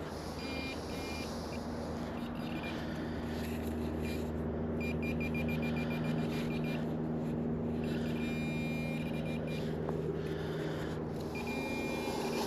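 Metal detector sounding its target tone: short high-pitched beeps that come in repeated clusters as the coil sweeps back and forth over buried metal. A steady low hum runs underneath.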